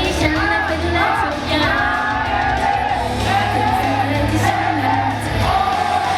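Thai idol pop song performed live: a female voice singing over the loud, steady backing music.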